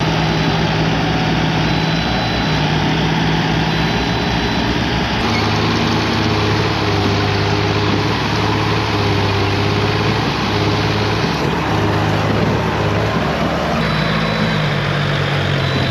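Tractor diesel engine running steadily. Its note drops abruptly about five seconds in and rises again near the end.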